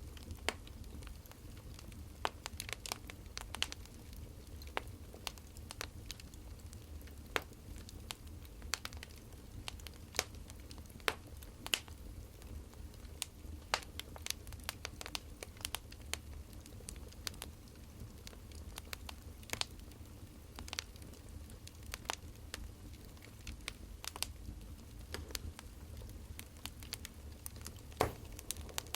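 Burning firewood crackling: irregular sharp pops and snaps, a few a second, over a low steady rumble.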